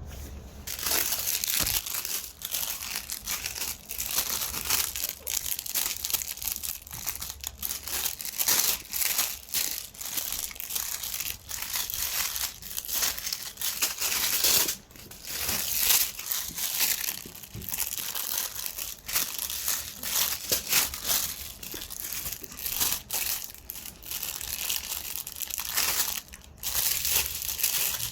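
Plastic shopping bag crinkling and rustling in irregular, busy bursts as a poodle plays with it, with a couple of short breaks.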